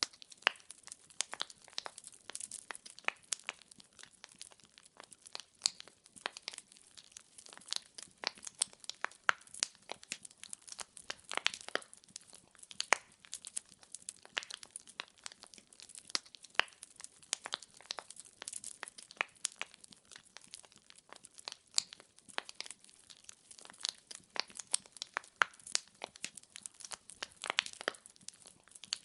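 Wood fire burning in a fireplace: logs crackling and popping in a steady, irregular stream of sharp snaps over a faint hiss.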